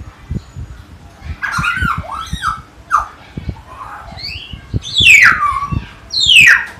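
Common hill myna calling: a run of squawks and gliding whistles, ending with two loud whistles that fall steeply in pitch, about five and six seconds in. Low knocks sound underneath.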